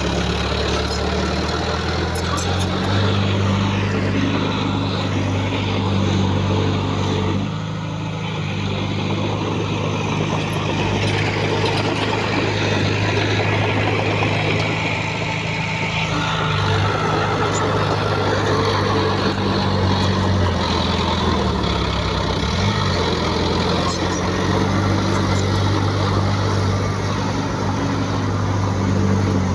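Heavy diesel engine of earthmoving machinery running under load, its pitch stepping up and down several times as the revs change.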